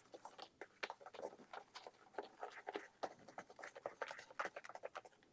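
Faint, irregular light taps and clicks of small objects being handled, a few each second.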